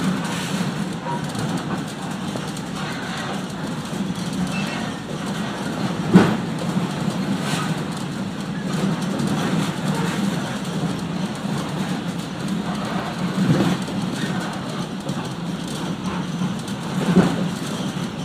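Tour train rolling along the track, heard on board: a steady rumble of wheels and car, with three sharp clunks, about 6, 13 and 17 seconds in.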